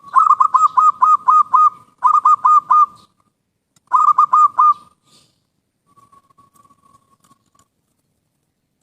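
Zebra dove (perkutut) cooing: three runs of quick staccato coos, about five a second, the first run the longest, followed a little later by a faint, soft trill.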